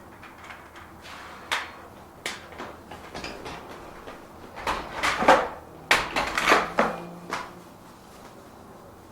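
A series of knocks and clatters, like objects being handled and set down, coming thickest about five to seven and a half seconds in.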